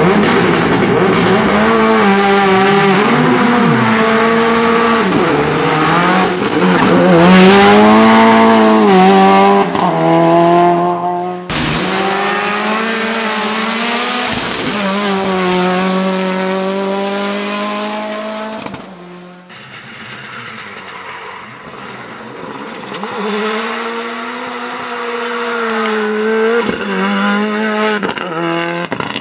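Turbocharged Toyota Corolla rally car driven hard, its engine revving up and dropping back through gear changes, with tyre squeal. The sound is edited from several passes: it cuts abruptly about a third of the way in and again near two-thirds, where it turns quieter and then builds as the car approaches.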